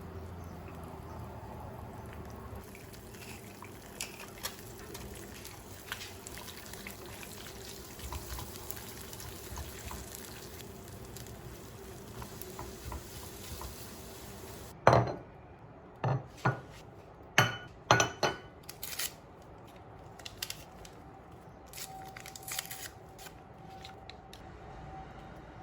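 Kitchen work sounds: dishes and utensils clinking and knocking. About halfway through, a quick series of loud, sharp knocks comes over a few seconds, then a few lighter clinks.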